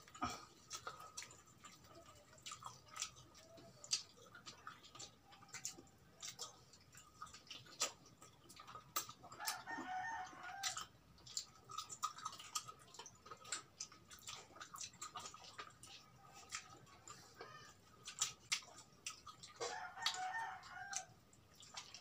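Close-up mouth sounds of eating fried chicken: sharp smacking and crunching clicks as the crispy skin and meat are bitten and chewed. A rooster crows twice in the background, about ten seconds apart, each crow lasting about a second and a half.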